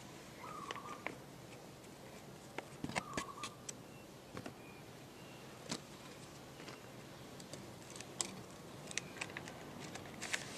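A sheet of paper being handled and folded: scattered crisp crinkles and creasing clicks, bunched together a few seconds in and again near the end.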